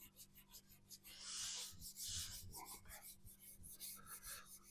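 Hand sanding of primer on a van's steel body panel: quick, even back-and-forth rubbing strokes, with a longer, louder stretch of rubbing about a second in. The primer is being rubbed down flat to take out ridges and high points.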